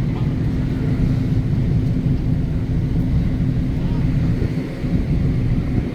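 Passenger ferry's engine running with a steady low rumble and a constant hum.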